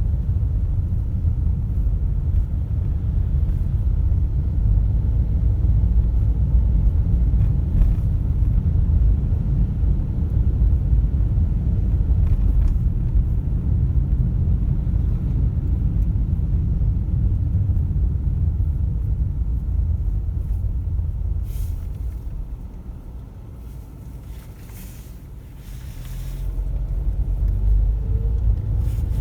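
Car driving along a road: a steady low rumble of engine and tyres, which fades for a few seconds about three-quarters of the way through as the car slows, then builds again as it picks up speed.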